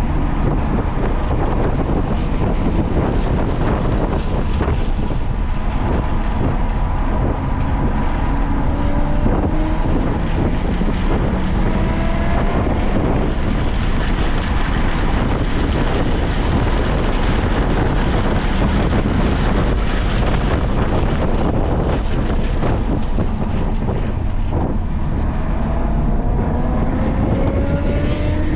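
Car driven hard on a race track: engine pitch climbing several times as it accelerates, under heavy wind and road noise on the microphone.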